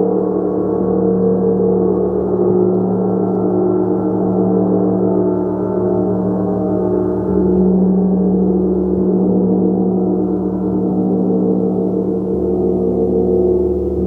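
A gong played continuously: a sustained, dense wash of many overlapping tones that swells every few seconds as it is struck softly again.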